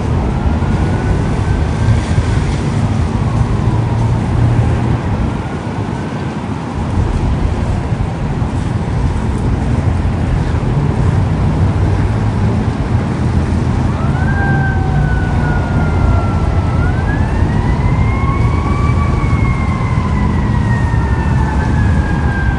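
An emergency vehicle siren wailing in slow rising and falling sweeps, clearest in the second half, over a loud steady rushing noise with a low rumble.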